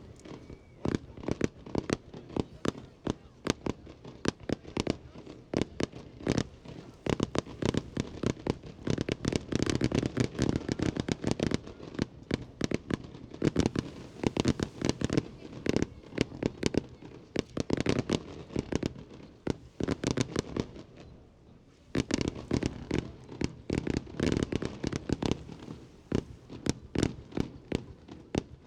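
Aerial fireworks show by Jinli Fireworks: a rapid, continuous barrage of bangs and crackles. It eases briefly about three quarters of the way through, then picks up again.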